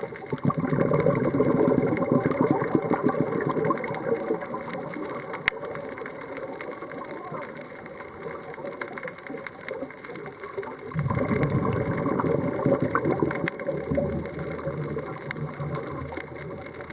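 A scuba diver's breathing heard underwater: exhaled bubbles rush and gurgle out of the regulator twice, each for a few seconds, between quieter inhales. Scattered sharp clicks crackle throughout.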